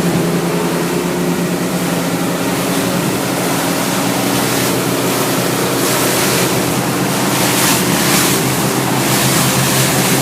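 Twin Suzuki 250 four-stroke outboards running underway with a steady drone, over the rush of water and wind past the catamaran's hulls. From about six seconds in, the wind and water noise comes in stronger, uneven gusts.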